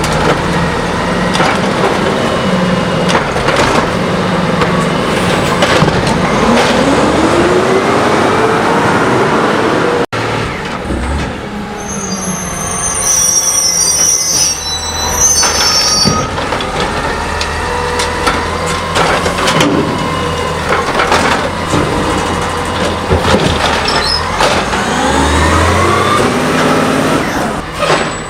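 CNG Heil Scorpion automated side-loader garbage truck working: its engine runs loudly and revs up several times, with metallic clanks and high-pitched squeals.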